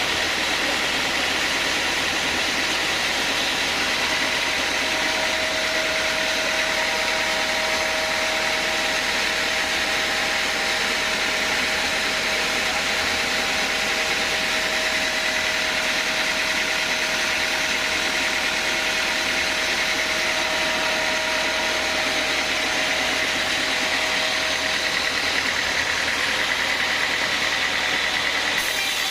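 Sawmill band saw machinery running steadily: a constant mechanical drone with a steady whine that does not change.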